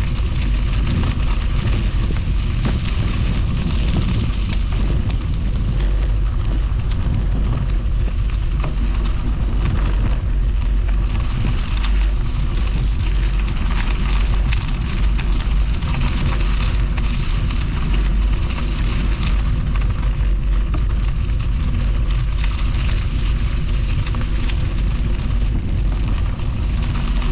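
Wind buffeting the microphone of a camera riding on a moving bicycle, a steady low rumble with a constant crackle of tyres rolling over the trail.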